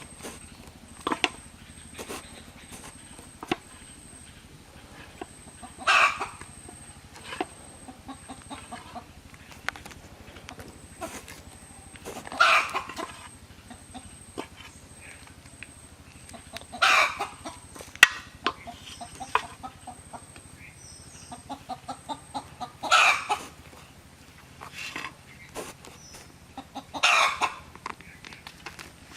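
Chickens squawking: five loud, rough calls about five seconds apart, with scattered small clicks and knocks between them.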